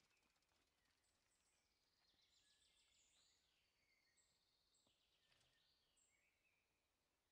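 Near silence, with faint woodland birdsong: short whistled notes and rising-and-falling calls scattered throughout.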